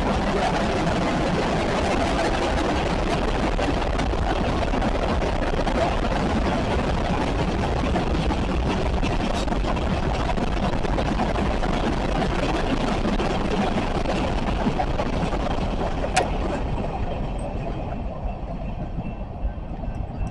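A train rolling past, with a steady clatter of wheels on rail that dies away in the last few seconds, as the end of the train goes by.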